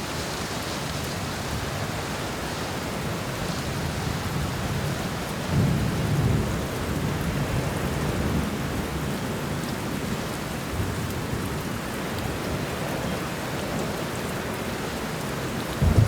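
Steady rain falling, with low rolls of distant thunder rumbling under it; the biggest roll starts about five and a half seconds in and dies away over a few seconds, and another begins right at the end.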